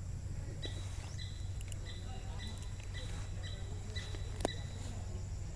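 A bird chirping in a steady run of short, evenly spaced chirps, about two a second, over a steady low hum, with a single sharp click about two-thirds of the way through.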